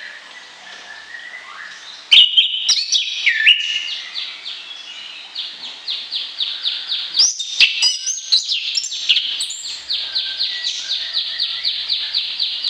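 A songbird singing: quiet, varied notes, then loud varied whistles from about two seconds in, and from about five seconds a fast run of short repeated notes, about five a second.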